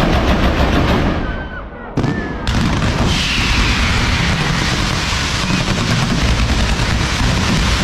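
Fireworks going off in a dense, continuous barrage of rapid bangs and crackles. The barrage eases off about a second in, then a sharp bang near two seconds starts it again, with a few short whistles.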